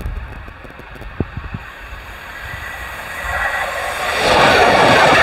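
LNER Class 801 Azuma electric train approaching at speed: a rising rush of wheels on rail and air that grows loud and steady about four seconds in. Wind buffets the microphone before it.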